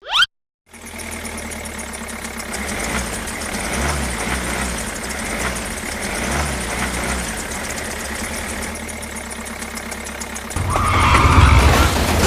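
A small motor running steadily after a brief silence, with an even buzzing drone that grows louder about ten and a half seconds in.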